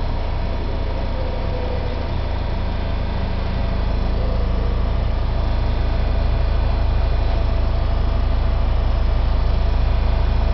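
Deep, steady rumble and hum of heavy construction vehicles, a road roller among them, working the roadway next to the building, heard from inside. The rumble grows stronger about four seconds in.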